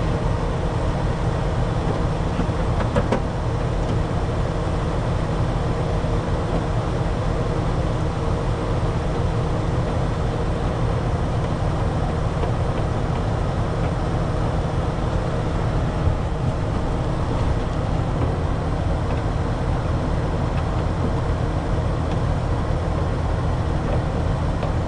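New Holland 8770 tractor running steadily, a continuous low drone with no change in speed.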